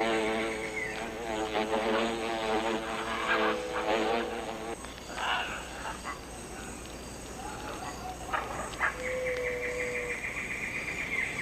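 Paper wasps buzzing as they fan their wings to cool the nest, a wavering hum for the first five seconds. Then forest sounds with short calls, and from about nine seconds in a rapid, high pulsed chirping call.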